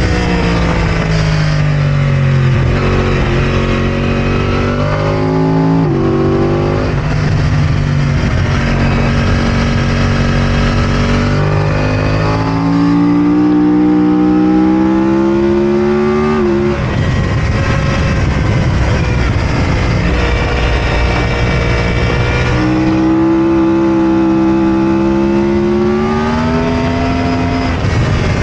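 2009 Yamaha R1's crossplane inline-four engine under hard acceleration, its pitch climbing through each gear and dropping sharply at the shifts, several times over, with stretches where the revs fall away for braking.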